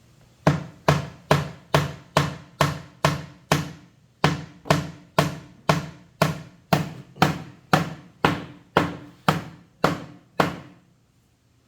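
Hammer driving a nail into the wood of a bangka boat's hull, about two strikes a second, each blow ringing briefly. There is a short pause about four seconds in, and the hammering stops near the end.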